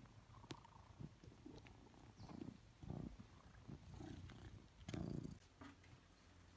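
Domestic cat purring faintly, in slow low swells, with a few soft clicks.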